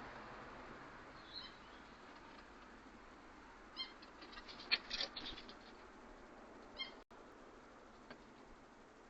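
Faint short bird calls: single calls about one and a half, four and seven seconds in, and a quick cluster of calls and clicks about five seconds in, over a low steady hiss.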